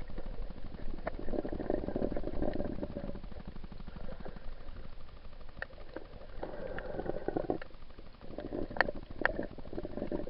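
Muffled underwater noise picked up by a waterproof action camera while snorkeling: bubbling, gurgling water that swells every few seconds, with scattered sharp clicks.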